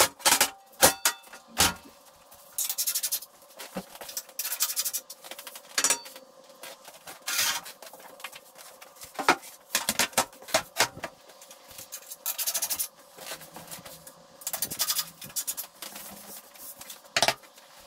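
Metal parts being handled in a workshop: sharp clicks and knocks, with a few short rasping or scraping strokes.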